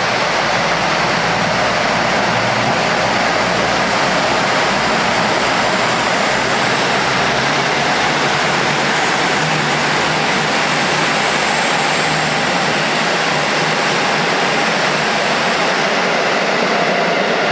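Steady, even rushing noise of a train running along a covered station platform.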